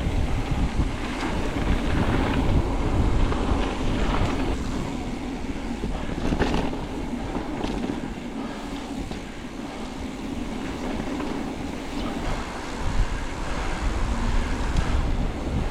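Wind buffeting a helmet- or bike-mounted action camera's microphone while a mountain bike rolls along a dirt trail, with tyre noise and scattered clicks and rattles from the bike.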